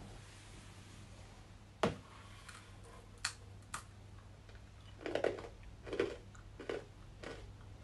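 Fried chakli spiral snack being bitten and chewed. A sharp crunchy snap comes about two seconds in, then a run of crisp crunches as it is chewed.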